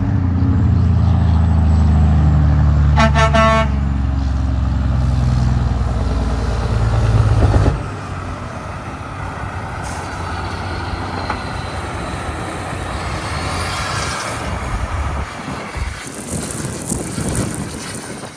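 A heavy truck's diesel engine passes close for the first eight seconds, with a short horn toot about three seconds in. Lighter traffic noise follows, swelling and then fading as another vehicle goes by.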